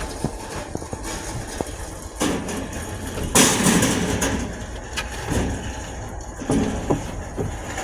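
Minivan door sliding shut with a loud rush about three seconds in, amid scattered clicks and knocks over a steady low rumble.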